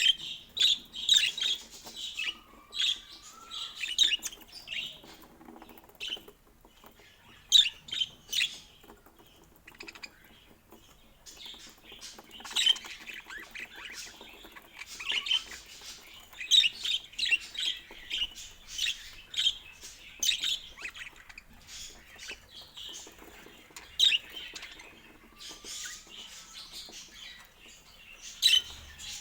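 Budgerigars chirping and chattering in quick bursts of short, high calls, with a quieter lull about ten seconds in before the chatter picks up again.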